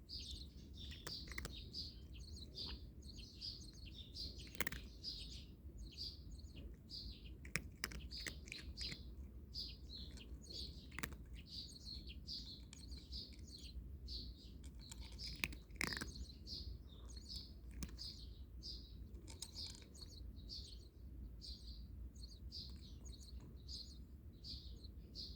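Small birds chirping steadily in rapid, short repeated notes, with a few sharp clicks scattered through.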